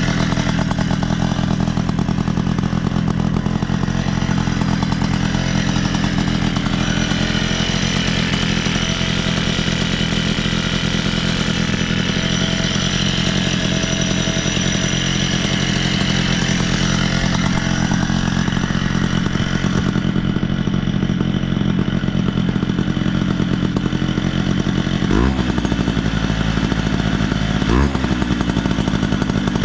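Puch E50 single-cylinder two-stroke moped engine running steadily on its first start-up after being swapped in and not yet tuned, with two brief sharp blips in the sound near the end.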